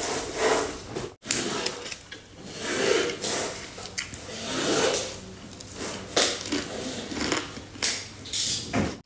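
Close-up eating sounds: a person chewing sticky rice with crisp-edged roasted chicken-of-the-woods mushroom, a run of short crunchy, wet chewing noises.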